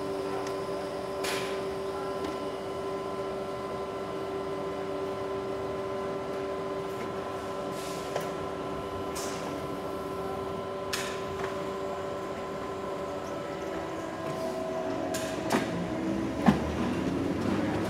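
An electric train's steady hum of several held tones, with occasional sharp clicks and knocks. In the last few seconds the rumble grows and the knocks come more often as the train begins to move.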